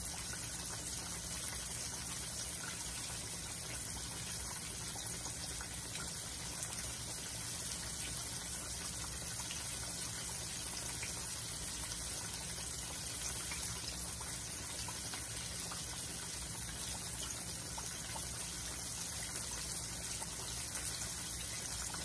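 Chicken breast frying in hot oil: a steady sizzle with fine crackling.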